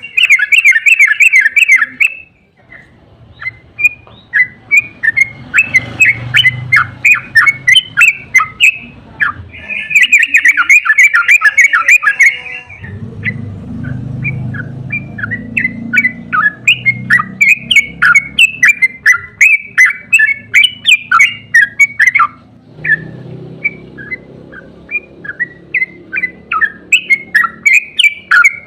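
Yellow-vented bulbul (trucukan) singing: fast, loud chattering trills near the start and again about ten seconds in, with long runs of quick repeated notes in between and after. A low background rumble runs under the later part.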